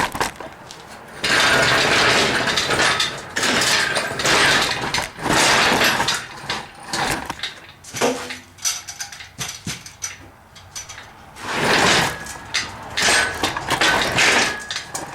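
Repeated scraping and dragging with clanks and knocks, like metal parts being shifted and dragged by hand. It comes in several long stretches, broken by short quieter gaps.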